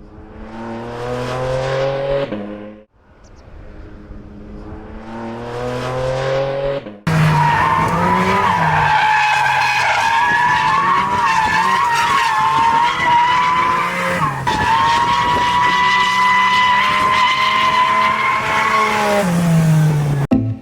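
Porsche 718 Cayman GT4 RS's 4.0-litre flat-six engine revving hard: two climbs up through the revs, each cut off, then from about seven seconds in a sustained high-rpm run that dips briefly mid-way and falls away near the end.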